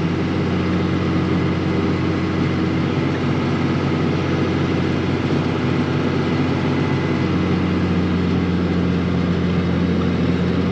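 Tractor engine running steadily, driving a round baler as a tied small square bale is fed into it, with an even mechanical hum and no change in pitch.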